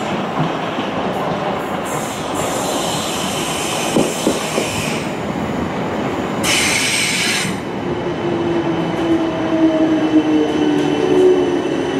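A train running through the station: steady wheel-on-rail rumble with a knock about four seconds in and a brief high wheel squeal about six and a half seconds in. From about eight seconds on, a whine of several pitches rises over the rumble.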